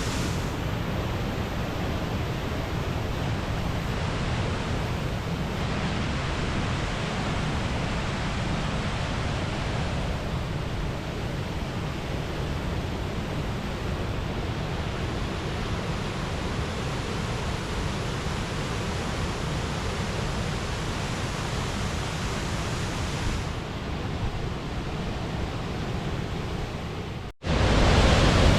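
Waterfall swollen by heavy rain, pouring with a loud, steady rush. About 27 seconds in the sound cuts out for an instant and comes back louder.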